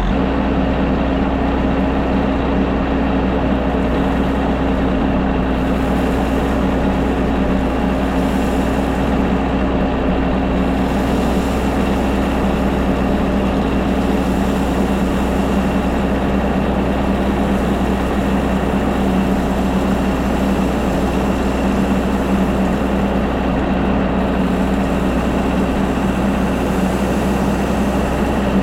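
Diesel engine of a loader machine running at a steady speed, with an even, unbroken engine note.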